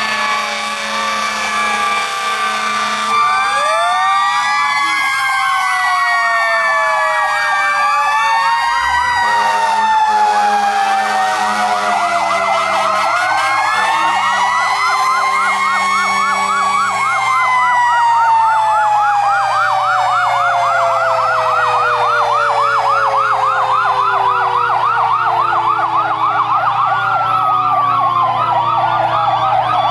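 Several fire truck sirens sounding at once: an electronic siren's fast warbling yelp and slower wails, overlapping with a mechanical Federal Q siren winding up and coasting down in long falling tones.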